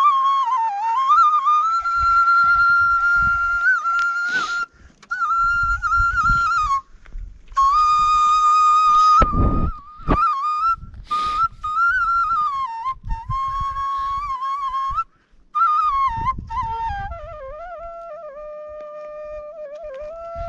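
A murali (Nepali bamboo flute) plays a slow folk melody in phrases, with short breaks for breath. Near the end the tune drops lower and gets softer. Low rumbling bursts sit under the tune, the strongest about halfway through.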